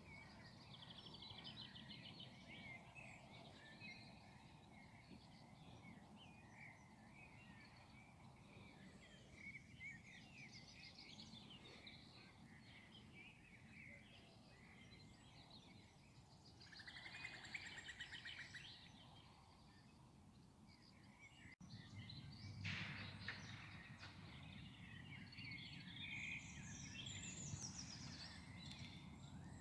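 Faint birdsong chorus by a river: many small birds chirping and trilling at once, over a low steady background rumble.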